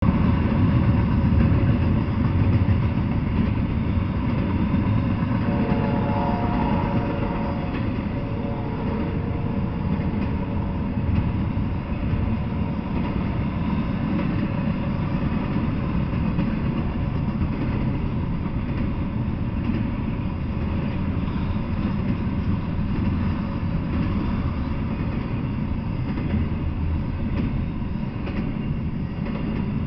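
Double-stack intermodal freight train rolling past: a steady rumble of wheels on rails and cars. A faint whining tone comes in about six seconds in and fades out a few seconds later.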